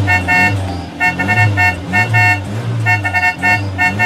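Animated sports-car horns beeping in quick runs of short toots, three runs in all, over a low rumbling hum that slides in pitch.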